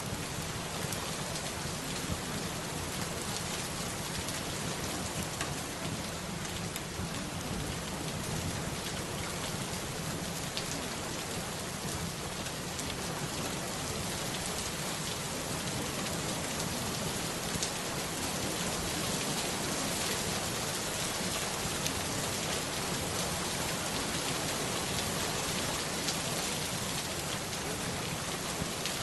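Steady rain falling, an even unbroken hiss with scattered drop ticks.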